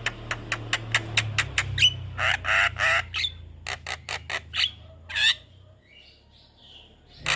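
Javan myna calling: a fast series of sharp clicking notes, harsh rasping squawks about two seconds in, and short whistled notes, easing to faint notes near the end.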